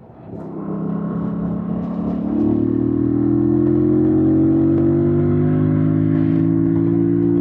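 2025 Yamaha MT-07's parallel-twin engine pulling under throttle. It comes in strongly about half a second in and gets louder again around two seconds in. It then holds a steady engine note whose pitch slowly rises as the bike gathers speed.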